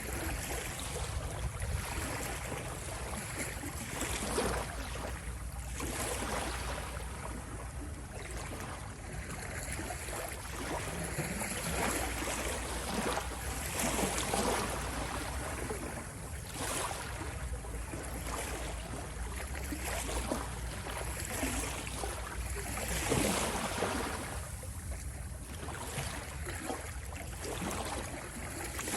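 Sea waves washing in: a continuous rushing noise with a low rumble beneath, swelling and easing at irregular intervals of a few seconds.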